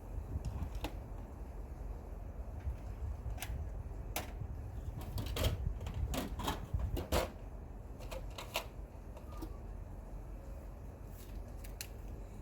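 Scattered, irregular clicks and knocks of a tool and hands working at the engine's oil filter housing cap to start loosening it, over a low steady rumble.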